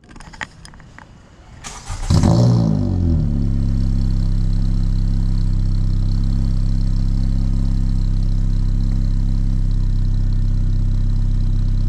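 2019 Honda Civic Sport's K20C2 2.0-litre four-cylinder starting up about two seconds in, flaring briefly in revs as it catches, then settling into a steady idle. Heard from the exhaust tip with a catless RV6 downpipe fitted, on its first start since the install.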